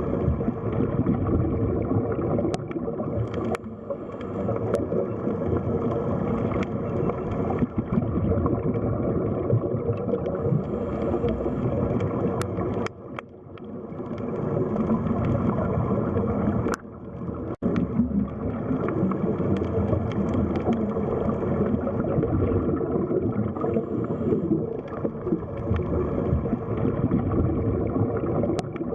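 Underwater sea ambience: a steady muffled rumble of moving water with gurgling, and a few faint sharp clicks scattered through it.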